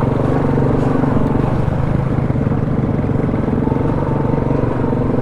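ATV engine running at a steady, even speed while riding along a trail.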